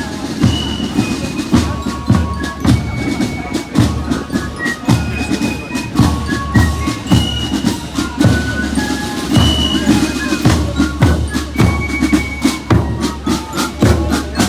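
Marching band playing a march: a steady bass drum and percussion beat under short, high, bell-like melody notes.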